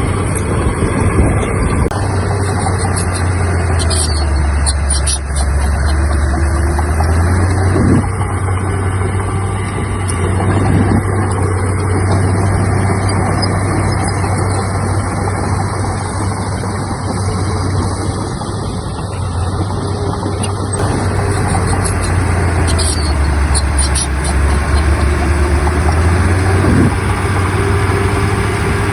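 The diesel engine of heavy earthmoving machinery runs steadily throughout. Its low note deepens and swells twice: a couple of seconds in, and again about three quarters of the way through.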